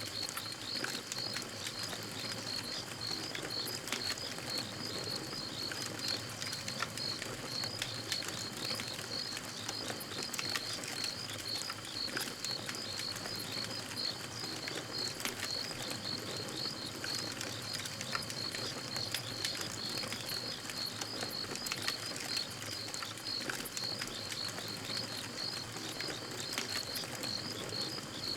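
Campfire crackling with scattered sharp pops and snaps, over a steady chorus of crickets chirping in an even, unbroken pulse.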